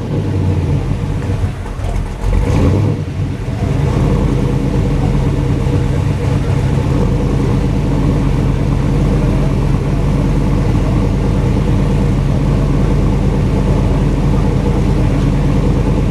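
Supercharged V8 of a 1956 Chevrolet Bel Air, blipped briefly about two and a half seconds in, then settling into a steady idle.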